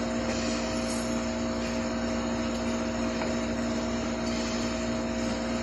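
Steady machine hum with a few fixed tones over an even noise, unchanging in level.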